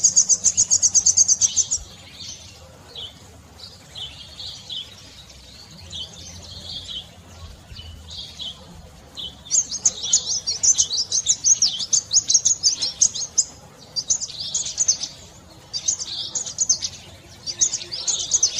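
Small songbird chirping in high, quick notes: a fast trill at the start, scattered single chirps, then dense runs of rapid chirping from about halfway through.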